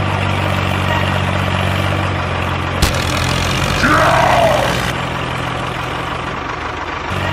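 Small engine running steadily, with a single sharp click about three seconds in.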